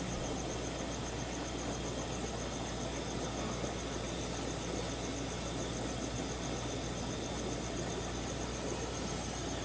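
Steady hum and hiss of the aquarium equipment in a fish store, with a constant low mains-type hum under it. A fast, even, high-pitched pulsing runs on top throughout.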